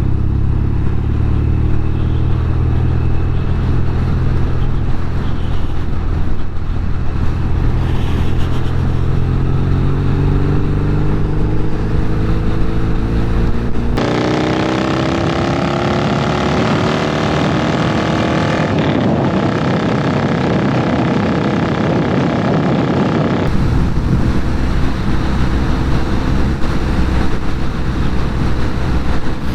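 Norton Commando 850 Mk2's parallel-twin engine running while riding, its pitch rising gradually as the bike gathers speed. About halfway in the sound changes abruptly to a brighter, noisier engine note that climbs in pitch, then switches back near the end.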